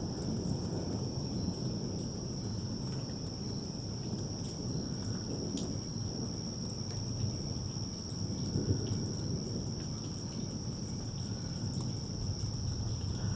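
A steady, high-pitched chorus of crickets over a continuous low rumble of distant thunder, with a few faint clicks.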